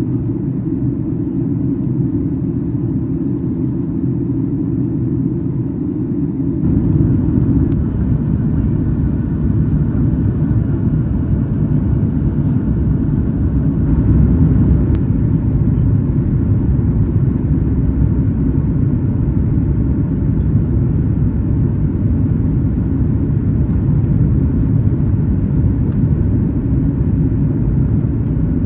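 Cabin noise of a Boeing 737 MAX 8 with CFM LEAP-1B engines on final approach and landing: a steady, loud rumble of engines and airflow that grows heavier about six seconds in. A thin high whine is heard for a couple of seconds, then about fourteen seconds in the rumble steps up with touchdown and carries on as the aircraft rolls out on the runway.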